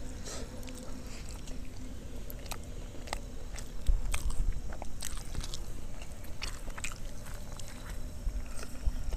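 Close-miked chewing and wet mouth clicks of someone eating rice and egg curry, with a low thump about four seconds in.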